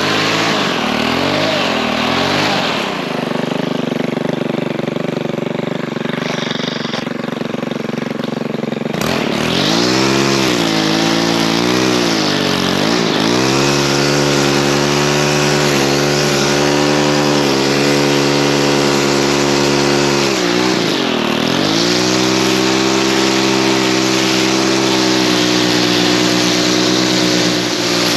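Lawn mower engine running steadily, its pitch dipping and recovering several times: about a second in, around ten and thirteen seconds, and again near twenty-one seconds.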